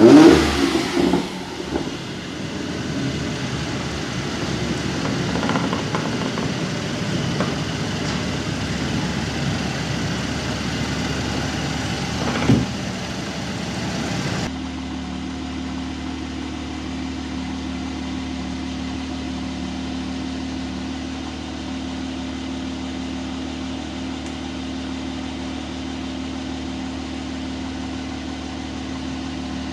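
Mercedes-AMG GLC 43 engine: a rev dying away at the start, then running with a short throttle blip about twelve seconds in. About halfway through it gives way to a steady, slightly quieter idle.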